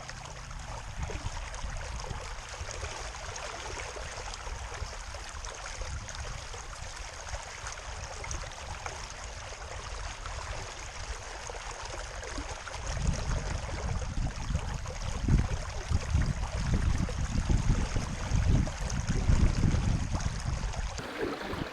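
Water gurgling and rushing along the hull of a small wooden sailing skiff running downwind. From about halfway through, gusts of wind buffet the microphone in low, uneven rumbles.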